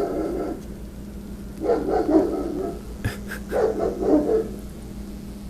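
Rottweiler barking angrily in three bouts: a short one at the start, then two longer runs of deep barks about two and four seconds in.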